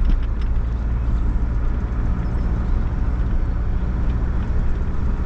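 Car driving along at steady speed, heard from inside the cabin: a constant low engine and road rumble with tyre hiss.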